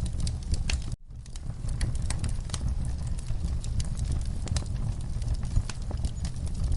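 Wood fire burning in a fireplace, crackling and popping in irregular sharp snaps over a steady low rumble of flame. About a second in, the sound cuts out suddenly for a moment and then comes back.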